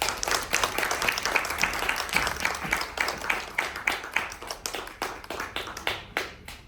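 Audience applauding, the clapping dense at first, then thinning out and dying away near the end.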